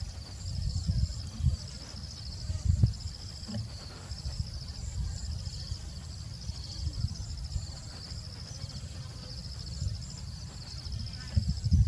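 Insects chirping in repeated pulsed bursts, high-pitched and steady, over an uneven low rumble.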